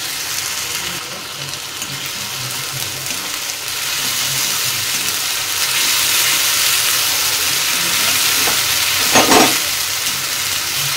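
Garlic paste and browned onions sizzling in hot oil in a kadai while being stirred with a wooden spatula. The sizzle grows louder about halfway through, and there is one brief louder sound about nine seconds in.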